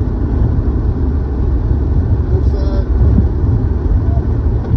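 Steady low rumble of a car driving: tyre and engine noise heard from inside the cabin on a wet road.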